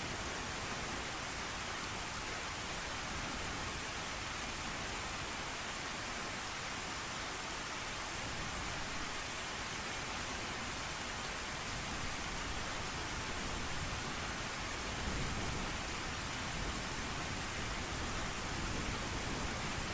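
Steady rain, a dense even hiss, with a low rumble of thunder swelling in the second half.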